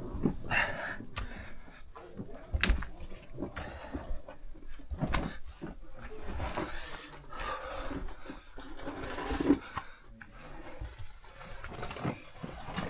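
A person breathing hard while moving through a tight rocky passage, with irregular knocks and scrapes against rock.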